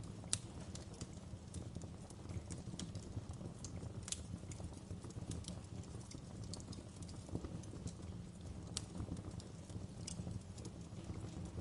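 Wood fire crackling in a fireplace: irregular sharp pops and snaps over a steady low rumble of the flames, with one louder snap just after the start.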